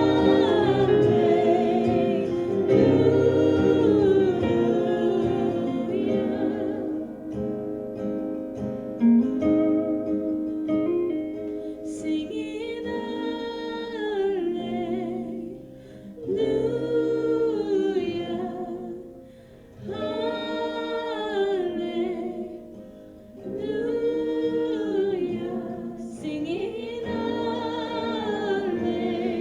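A praise team singing a contemporary worship song in phrases with short breaks, accompanied by guitar.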